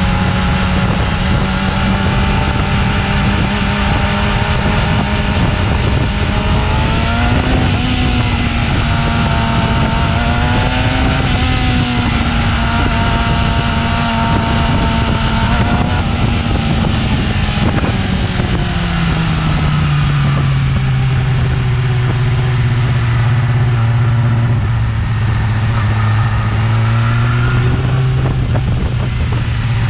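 Yamaha R6 inline-four engine through its stock exhaust, running at a steady mid-range note that rises slightly through the middle. About two-thirds of the way through, the pitch falls over a couple of seconds and settles at a lower steady note.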